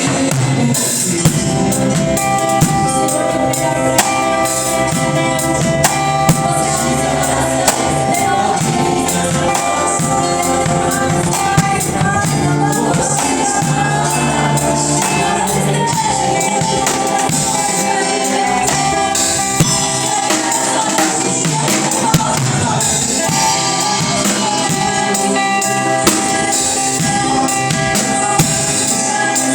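Gospel praise music played by a band: a drum kit keeping a steady beat with sharp accents about every second and a half, tambourine, and sustained chords underneath.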